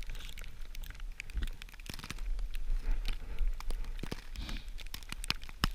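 Crinkling and sharp crackling clicks from close handling of dry tinder and gear, over a steady low wind rumble on the microphone.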